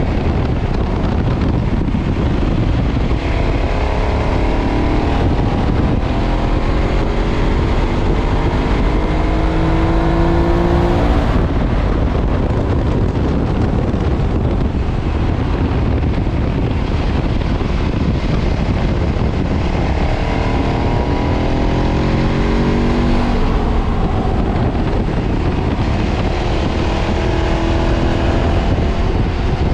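KTM 990 V-twin engine through its stock exhaust, riding at speed with a steady rush of wind noise. The engine pitch climbs twice under acceleration, first from a few seconds in until about a third of the way through, then again about two-thirds through, dropping off each time.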